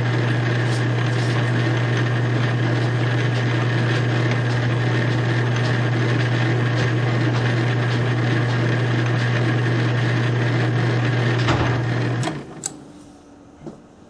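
South Bend metal lathe running steadily with a strong low motor hum and a busy mechanical clatter of gears, then switched off about twelve seconds in, its sound dropping away quickly. A few small clicks follow.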